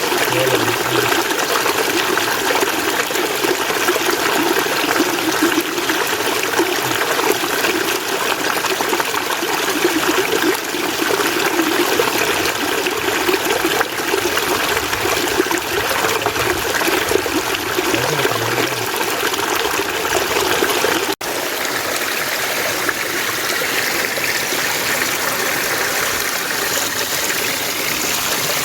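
Mountain water running and splashing steadily. About three-quarters of the way through it cuts abruptly to a different stretch of water with a brighter, hissier rush.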